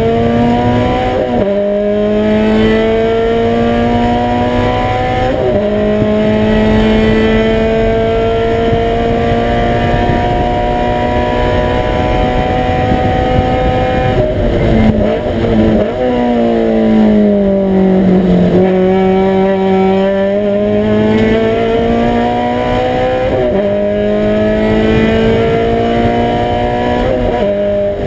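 Toyota 86 race car's flat-four engine heard from inside the cockpit under hard acceleration, its note climbing through the gears with quick drops at each upshift. About halfway through it goes ragged through a burst of downshifts under braking, the pitch falls through the corner, then climbs again through two more upshifts.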